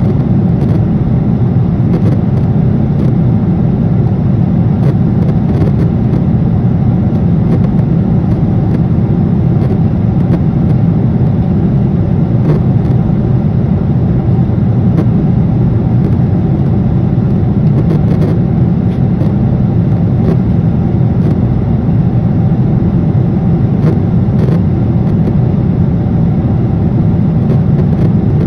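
Airliner cabin noise in flight: the steady, even drone of the engines and the air rushing past the fuselage, heaviest in the low range and unchanging throughout.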